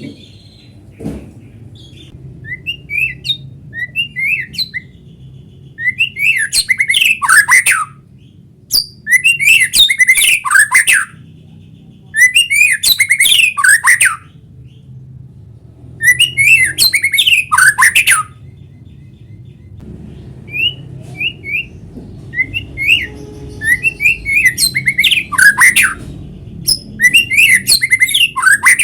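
White-rumped shama (murai batu) singing vigorously: bursts of rapid, varied phrases about two seconds long, recurring every few seconds, with short chirps in between. A faint low hum runs underneath.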